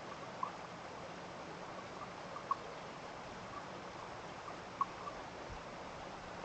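Water dripping after rain: short, clear plinks every two seconds or so over a steady hiss of running water.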